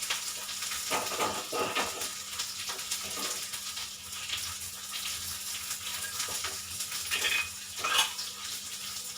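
Onions and spices sizzling in hot oil in a kadhai, with a spoon stirring and scraping the pan now and then.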